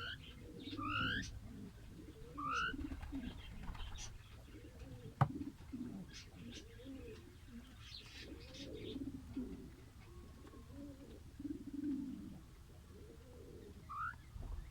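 Caged birds calling: a repeated low cooing runs throughout, with a few short rising high chirps near the start and again near the end. A single sharp click comes about five seconds in.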